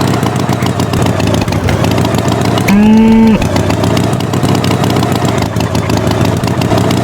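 Tractor engine running steadily, with a brief pitched tone about three seconds in.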